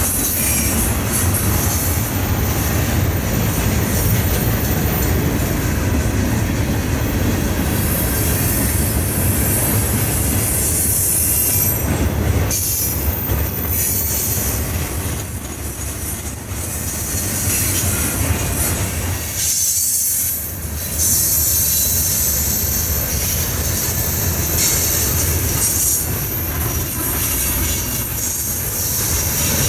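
A train's railroad cars rolling past with a continuous heavy rumble and a thin high squeal from the wheels at times. The sound dips briefly about two-thirds of the way through.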